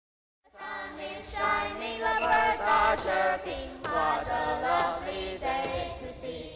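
A group of young voices singing together, starting suddenly about half a second in.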